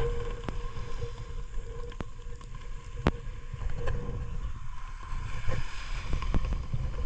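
Boat engine running steadily under way, a low rumble with a faint steady hum and a few light knocks.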